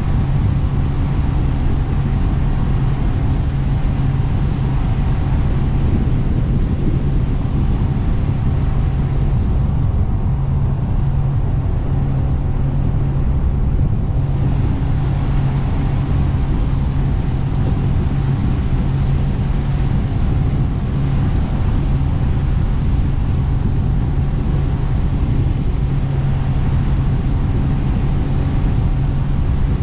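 Jet boat engine running steadily underway, a loud constant low drone with the rush of water and wind around it.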